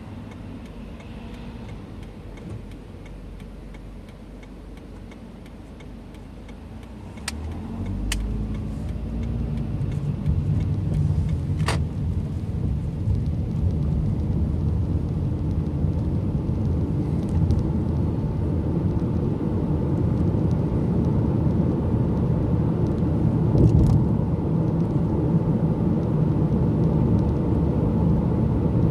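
Car engine and road noise heard from inside the cabin, quiet at first, then louder about a quarter of the way in as the car pulls away and picks up speed. A few sharp clicks sound around the moment it sets off.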